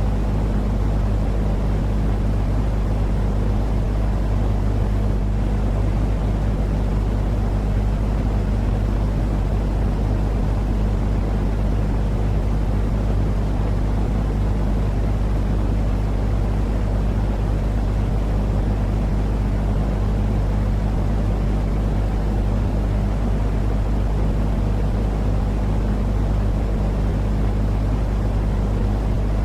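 Steady, unchanging low rumbling noise with a faint low hum beneath it: a continuous 'white noise' track for lulling a baby to sleep.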